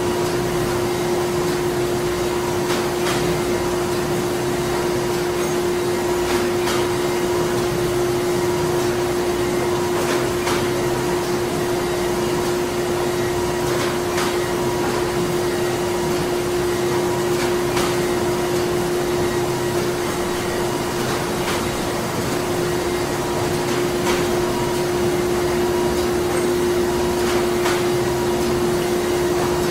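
Printing plant machinery running steadily: a constant hum over an even mechanical whirr, with faint irregular ticks and a higher tone that comes and goes.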